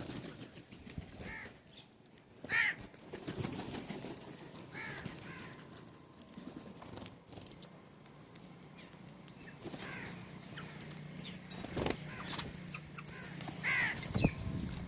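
Birds at a feeder calling, about five short calls a few seconds apart, the loudest about two and a half seconds in, with scattered wing flutters and small clicks between them.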